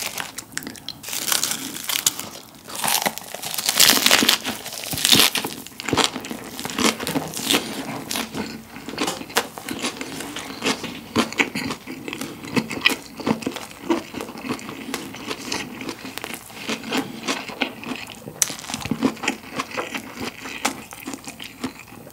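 Close-miked biting and chewing of a lettuce wrap (ssam) filled with grilled Iberico pork and rice: crisp crunching of the lettuce leaves with wet, crackling chewing, loudest in the first few seconds and then a steadier run of chews.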